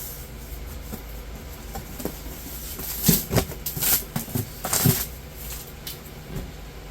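A new small metal-melting furnace and its packaging being unpacked and handled: a cluster of sharp knocks and clatters about three to five seconds in, over a steady low hum.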